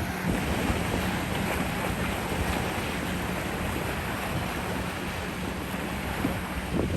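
Wind rushing on the microphone over water noise and a steady low motor hum from a small boat.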